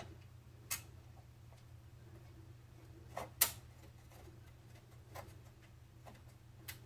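Scattered sharp clicks and taps of PC parts and tools being handled, about half a dozen, the loudest a double click about halfway through, over a steady low hum.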